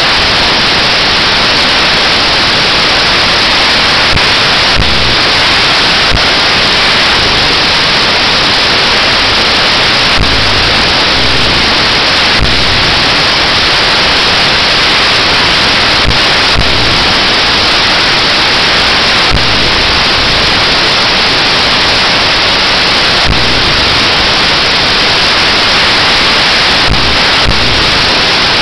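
Loud, steady static-like hiss from an old mobile phone's microphone that drowns out the event; no distinct sound stands out.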